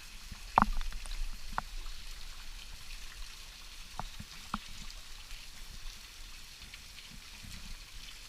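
Waterfall running steadily into a pool, with a few short sharp sounds on top: the loudest about half a second in, and smaller ones at about one and a half seconds and around four seconds.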